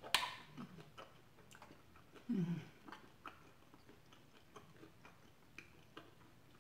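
Close-miked eating of fried chicken wings: a sharp bite crunch right at the start, then scattered small chewing clicks and mouth sounds, with a short falling hum about two seconds in.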